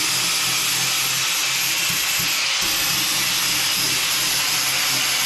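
A power tool running steadily with an even hiss, stripping rust and old sound deadening from a car's floor pan.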